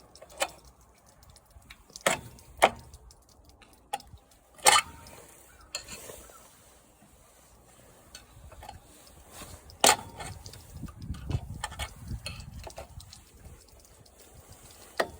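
Irregular metal clinks and knocks, about a dozen sharp single hits spaced unevenly, from tools and lawn mower engine parts being handled while the engine is taken apart, with a low rumbling stretch of handling noise about two-thirds in.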